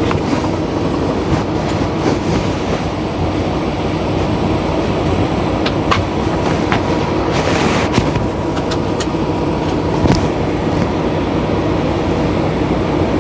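Air rushing steadily through the tractor's trailer air supply valve after the trailer brakes are released: the trailer's air lines are still filling, and the flow stops once the trailer is aired up. A diesel engine idles underneath, and a few sharp clicks come in the second half.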